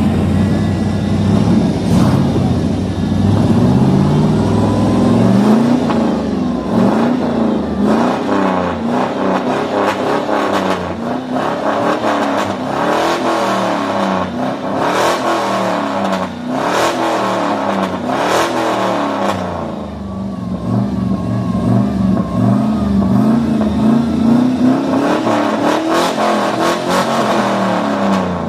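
Truck engine revved hard over and over, its pitch climbing and dropping with each press of the throttle, with quicker blips in the middle. The engine has just been brought back to running after sitting unused for two years.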